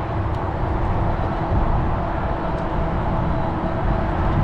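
Steady rumble of wind and rolling noise from riding a fat-tire electric bike, with a faint steady hum over it.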